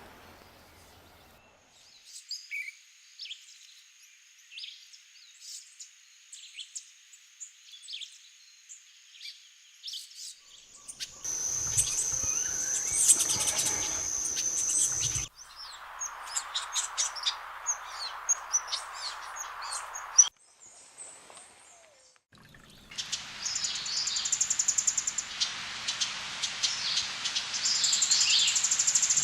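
Wild birds calling and singing in several short recordings joined by abrupt cuts: mostly short, high chips and notes, at times over a steady high whine.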